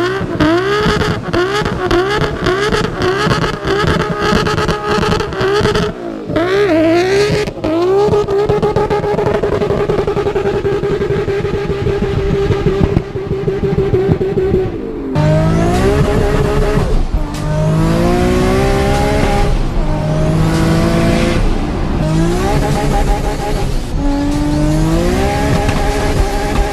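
Toyota Supra MK4's turbocharged 2JZ straight-six engine. At first it is revved in quick blips about twice a second. It is then held at high, steady revs for several seconds. After a cut it accelerates hard, its pitch climbing and dropping back through several gear changes.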